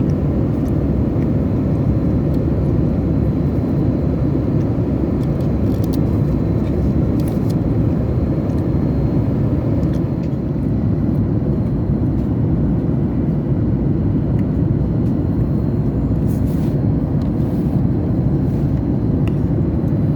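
Steady deep rumble of a Boeing 737 MAX 8 cabin in cruise, the noise of airflow and its CFM LEAP-1B engines, with a faint high tone running above it.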